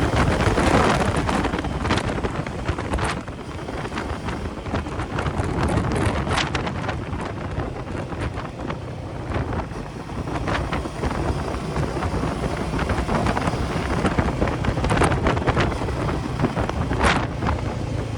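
Wind buffeting the microphone of a Royal Enfield Meteor 350 ridden at highway speed, with the motorcycle's running noise under it and a few sharper gusts.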